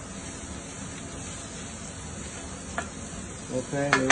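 Fried rice frying in the drum of an automatic wok cooker, a steady sizzling hiss, with a single sharp click a little before three seconds in.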